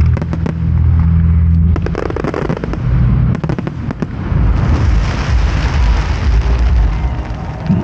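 Fireworks going off: a quick run of sharp bangs and crackles, with a denser crackling stretch about halfway through. A steady low rumble sits underneath at the start.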